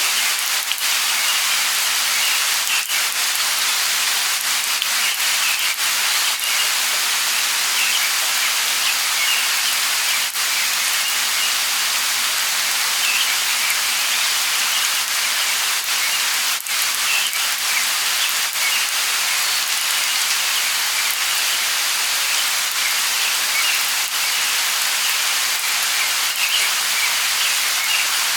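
Light rain falling steadily, an even hiss with small scattered chirps, likely distant birds, heard throughout.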